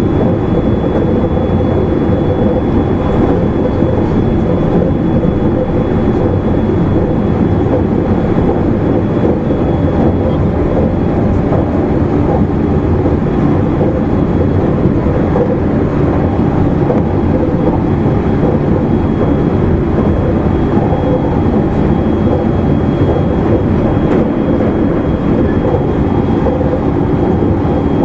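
Interior running noise of a JR East E259 series Narita Express motor car (MoHa E259) moving at steady speed: a loud, even rumble of wheels on rail with a faint steady hum.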